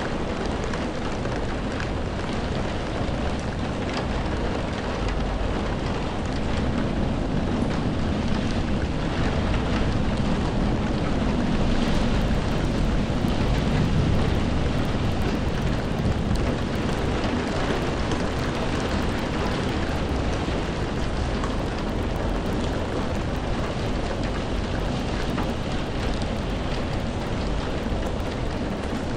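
Steady rainfall, a dense even hiss. A low rumble swells through the middle and fades again.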